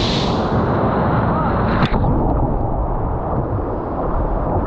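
Surf and wind rumbling heavily on the microphone in the ocean, with a sharp click about two seconds in after which the high hiss drops away.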